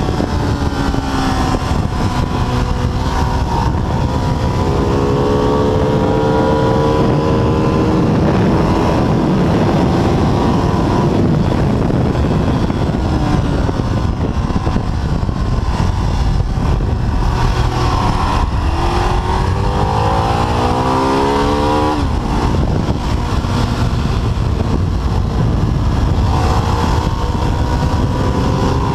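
Ducati 848's L-twin engine running hard on track, its pitch climbing in long pulls through the revs and dropping sharply at one gear change or throttle-off, with steady wind rush over the bike.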